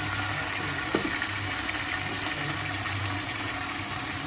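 Onion masala sizzling steadily in oil in a non-stick kadai as ginger-garlic paste is dropped in, over a steady low hum, with one small knock about a second in.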